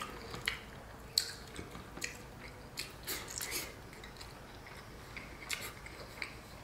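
Close-up eating sounds: a person chewing a mouthful of food, with soft, irregular wet clicks and smacks of the mouth.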